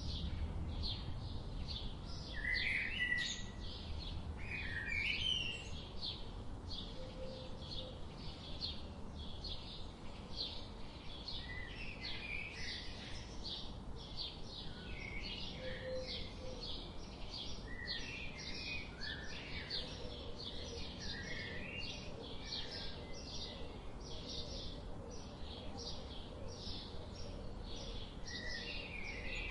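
A chorus of many small birds chirping, with rapid short high chirps overlapping continuously and occasional short warbled phrases among them.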